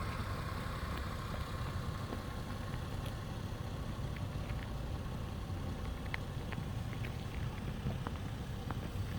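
2020 Toyota Avalon TRD's 3.5-litre V6 running steadily at low revs, a low, even rumble, with a few faint clicks in the second half.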